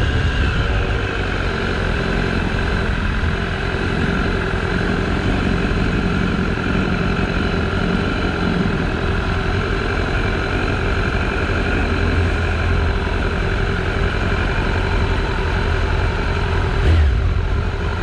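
BMW S1000RR's inline-four engine running steadily under way, mixed with a steady rush of riding noise. A single sharp knock near the end.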